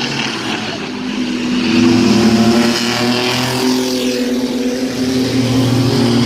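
Mini truck race engines running hard at speed, several engines at once. About two seconds in, one gets louder and rises in pitch as it comes close, then the engines hold steady revs.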